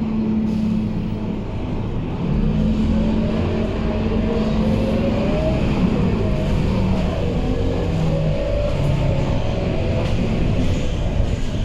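Scania K230UB bus engine under acceleration, its pitch rising and falling in several steps as it pulls through the gears, over a constant low rumble.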